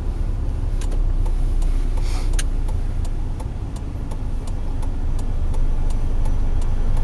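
Steady low rumble of a car's engine and road noise heard from inside the cabin while driving, with faint regular ticking and a brief hiss about two seconds in.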